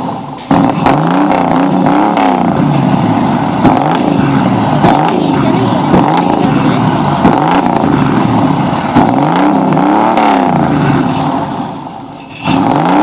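Car engine with a loud exhaust revved over and over, its pitch rising and falling about every second and a half, with sharp cracks from the exhaust; the revs sag near the end, then surge again suddenly.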